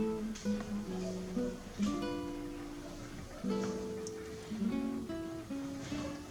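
Acoustic guitar music: plucked and strummed chords.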